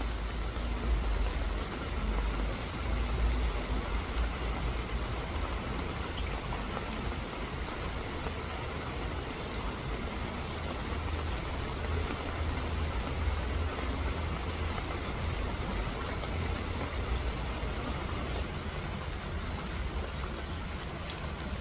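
Steady rain falling, an even hiss of drops, with a low rumble underneath.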